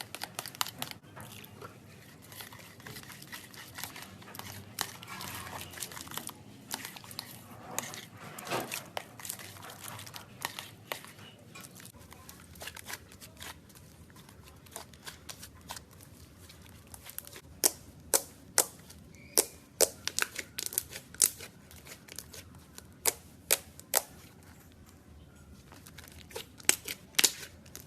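Irregular sharp clicks and taps, with crinkling rustle through the first half, then louder separate clicks every half second or so in the second half.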